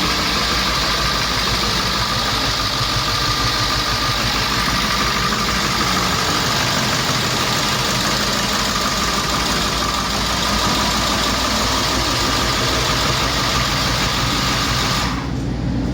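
1998 International T444E 7.3-litre turbo-diesel V8 idling steadily. Near the end the higher part of the sound drops away, and then the sound cuts off.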